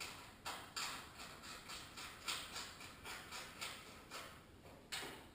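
A run of short scraping strokes from hand-tool work, about two to three a second, spacing out near the end.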